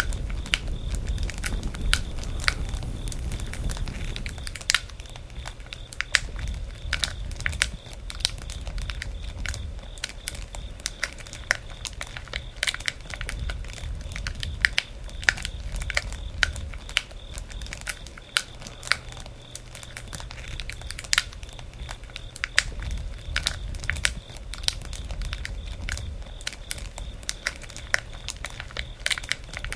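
Wood fire crackling: irregular sharp pops and snaps several times a second over a low steady rumble.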